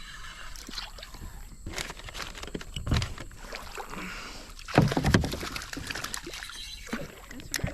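Water splashing and sloshing around a small boat on a river, with a few hollow knocks and thumps.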